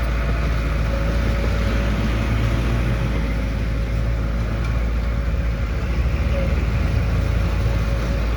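Heavy construction machine's diesel engine running steadily: a deep, even rumble with a thin steady whine above it.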